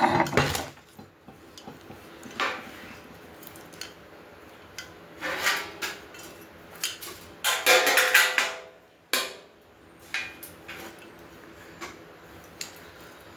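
Metal grill parts clanking and rattling as they are handled and fitted together during assembly, in several separate bursts with a metallic ring, the longest about eight seconds in.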